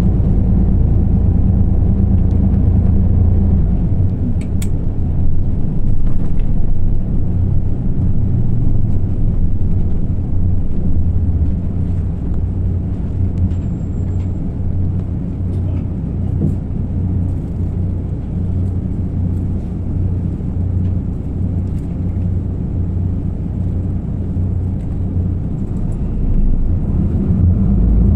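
Isuzu PKG-LV234L2 city bus's turbo-diesel inline-six running under load with its viscous coupling cooling fan engaged. The engine pulls hard at first, eases off about four seconds in to a lighter, steady run with a few faint rattles, then pulls hard again near the end.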